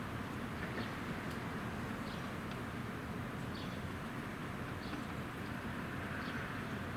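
Steady outdoor background noise with a small bird's short, high chirps repeating about once a second.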